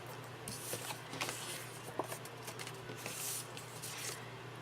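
Paper and card stock being handled on a craft table: soft rustles and slides, with a light tick about two seconds in, over a low electrical hum.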